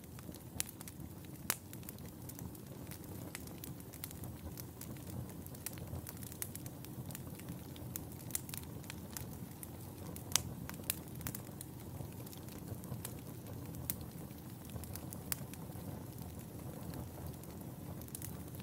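Wood fire burning in a fireplace: a steady low rumble of flames with frequent irregular sharp crackles and pops, two louder pops about a second and a half in and about ten seconds in.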